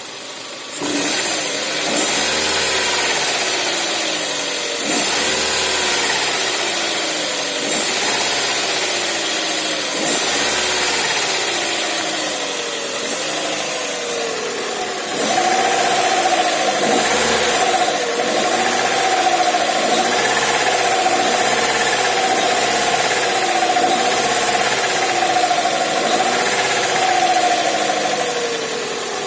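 Hyundai Tucson engine running and being revved in repeated short blips, its pitch rising and falling each time. From about halfway a steady whine rides over it. The noise is a fault from the timing belt drive, and replacing the timing belt cured it.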